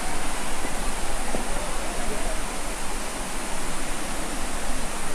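Floodwater rushing, a steady, even wash of noise with no breaks.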